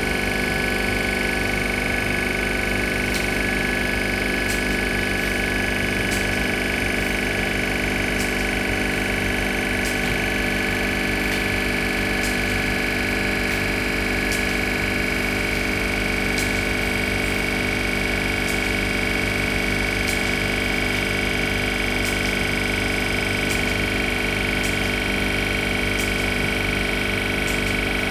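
Bitzer 2CES-4Y two-cylinder semi-hermetic reciprocating refrigeration compressor running steadily on a run test, drawing about 5 amps. It makes an even mechanical hum with several steady tones.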